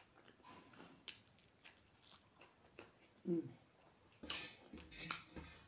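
Close-up eating sounds of a person chewing a mouthful of rice with wet lip smacks and small mouth clicks. A brief voiced sound comes about three seconds in, and the smacking grows louder and busier in the last second and a half.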